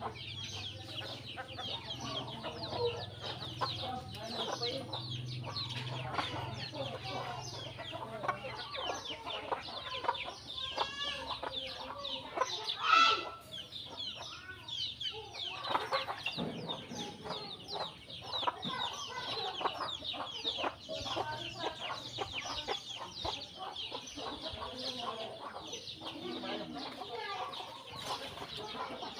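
A flock of sparrows chirping constantly, with chickens clucking underneath. About halfway through, one loud squawk from a chicken stands out above the rest.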